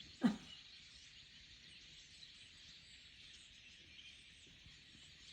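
Faint massed chirping of a large flock of small birds, many calls overlapping into a steady twittering haze. A short louder sound falls in pitch just after the start.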